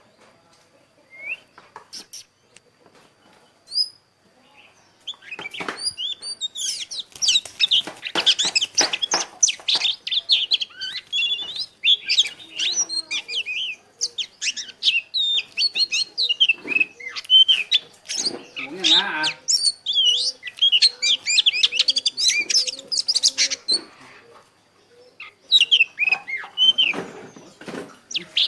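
White-eyes singing their fast, twittering warble (the 'líu' song): a few single chirps at first, then continuous rapid high song from about five seconds in, with a short lull near the end before it resumes.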